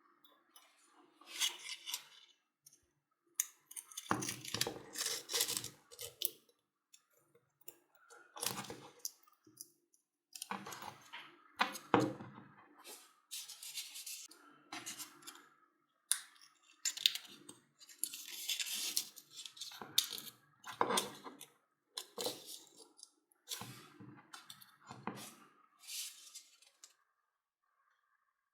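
Irregular rustling, scraping and light clicks of hand work on a hammer drill's motor armature as it is rewound, in uneven bursts about a second or two long.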